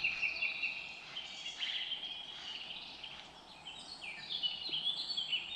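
Songbirds singing: a run of short, varied chirping phrases, high in pitch, over faint outdoor background hiss.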